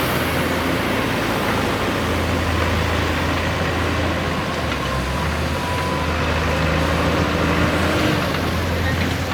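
Backhoe loader's diesel engine running steadily with a low hum, under a constant rushing noise.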